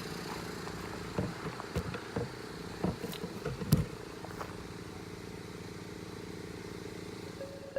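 A steady low engine hum, with a scatter of sharp metallic clinks and knocks from tools and parts being handled during the first half.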